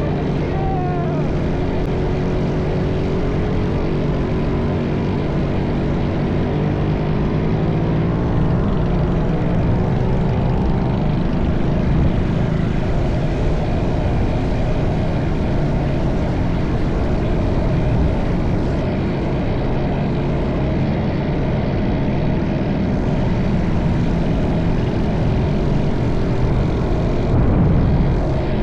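Minibike engines running steadily. Other engines in the group rise and fall in pitch during the first ten seconds or so.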